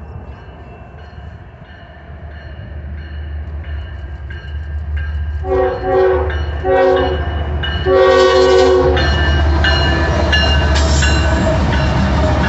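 Diesel locomotive approaching, its engine rumble growing louder, sounding a multi-tone air horn in three blasts about halfway through, two short and a longer one. The train then passes close by, with steady wheel-on-rail noise and some high ringing.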